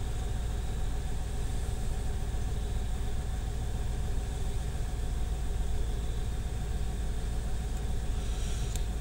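1995 Chevrolet Impala SS's 5.7-litre LT1 V8 idling steadily at about 900 rpm, a low, even hum.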